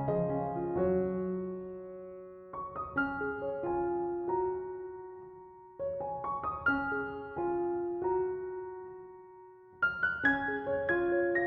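Slow, gentle piano music: a few notes struck together roughly every three to four seconds, each group left to ring and fade away.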